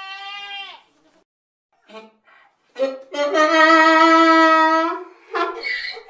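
Goat bleating: a short bleat at the start, then a long, loud bleat held at a steady pitch for about two seconds, starting about three seconds in, and a short bleat near the end.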